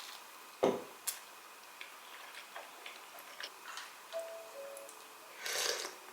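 Small everyday handling sounds: scattered light clicks and taps, a sharper knock a little over half a second in, and a brief rustling scrape near the end. A few soft, short musical notes come in during the second half.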